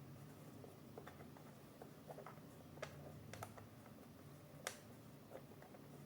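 Faint, scattered light clicks and taps of Bambu Lab A1 3D printer parts being handled during assembly. A few sharper clicks come about three and three and a half seconds in, and the loudest just before five seconds in.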